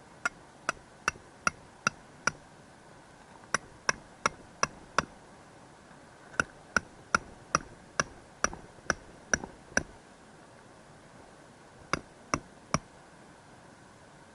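Hammer driving metal tent pegs into the ground: four runs of sharp blows, about two to three a second, each with a short metallic ring.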